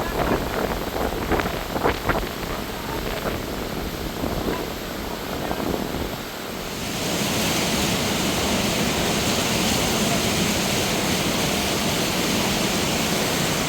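Wind buffeting the microphone in uneven gusts, then from about halfway through the steady, even rush of a fast-flowing river.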